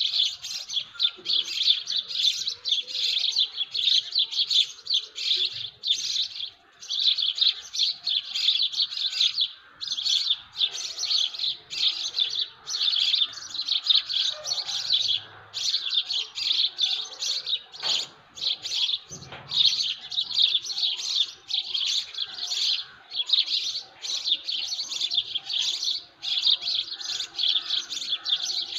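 Many small birds chirping together in a dense early-morning dawn chorus of rapid, high twittering, dipping briefly every few seconds.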